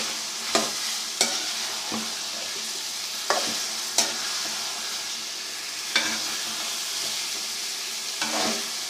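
Potatoes and peas sizzling in oil and onion-tomato masala in a pot, with a spoon scraping the bottom of the pot every second or so as they are stirred. This is the frying stage of aloo matar before water is added.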